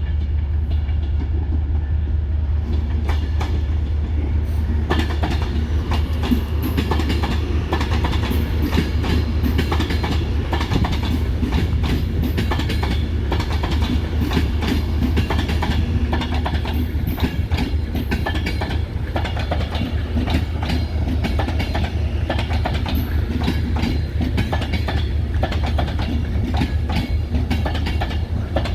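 Train running on the rails, a steady low rumble with a dense stream of wheel clicks and rattles over the track.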